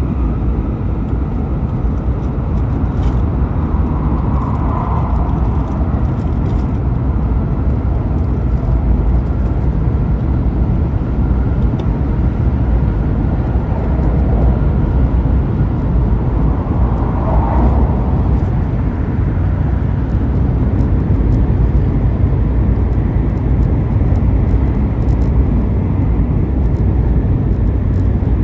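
Shinkansen train running at speed, heard from inside the carriage: a steady, loud low rumble.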